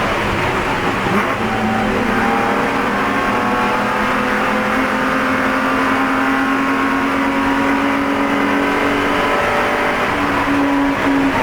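Spec E46 BMW race car's straight-six engine pulling at full throttle, its pitch climbing slowly and steadily for most of the time, with a change of note near the end.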